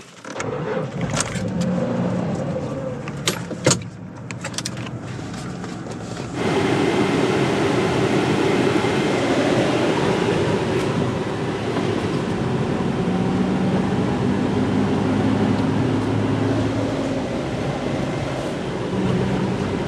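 Pickup truck engine running, with a few sharp clicks and knocks in the first few seconds. About six seconds in it rises abruptly to a louder, steady rumble as the truck drives off over desert dirt, the engine humming underneath.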